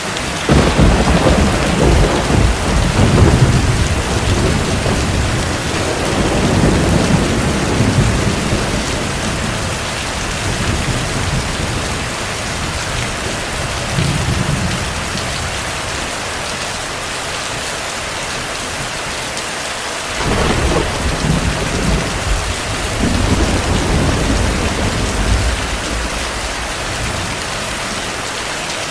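Steady heavy rain with rolls of thunder. One breaks right at the start and rumbles for about ten seconds, a short rumble follows midway, and a second roll breaks about twenty seconds in and rumbles off over several seconds.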